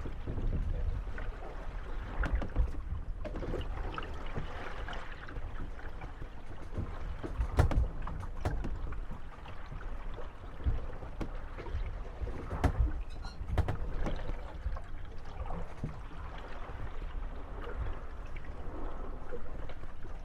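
Moored Venetian gondolas rocking on wind-driven waves, their hulls creaking and knocking together. Sharp knocks come at irregular intervals over steady water and wind noise, loudest about a third of the way in and again past the middle.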